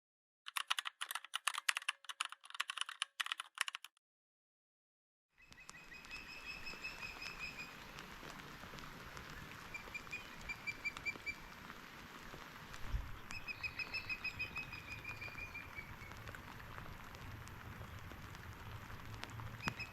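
A bird repeatedly gives a short, rapid trill of about a second, several times over a steady outdoor hiss. Before that there are about three seconds of rapid clicking like keyboard typing, then a moment of silence.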